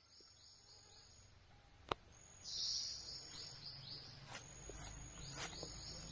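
A small songbird singing runs of short, high, quickly falling notes, repeated several times and faint. A single sharp click comes about two seconds in, and a low rumble joins in the second half.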